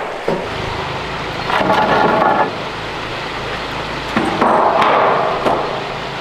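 A few sharp knocks and two longer noisy scraping stretches over a steady low hum, like building work going on.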